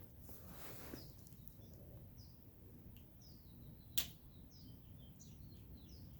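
Faint outdoor ambience with small birds chirping repeatedly over a low steady rumble; a brief swish near the start and a single sharp click about four seconds in.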